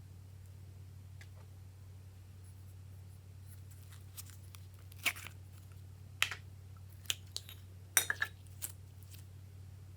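Glossy slime being worked by hand, giving a few scattered sticky clicks and pops, over a steady low hum.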